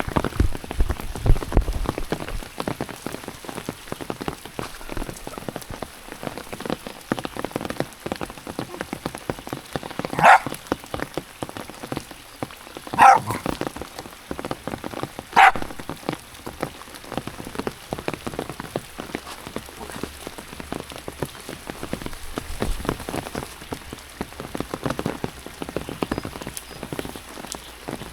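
Steady rain with many close drops ticking. A dog barks three times in the middle, a few seconds apart.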